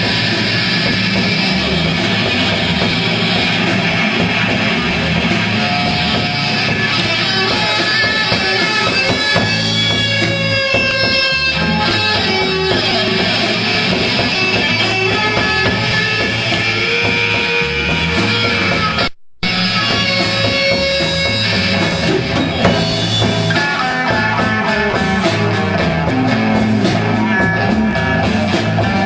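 Live rock band playing, electric guitar over bass and drum kit. The sound cuts out completely for a split second about two-thirds of the way through, a dropout in the damaged recording.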